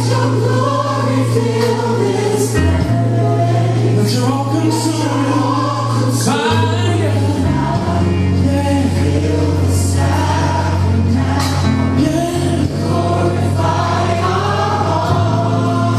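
Gospel worship song playing, with a choir singing over a held bass line.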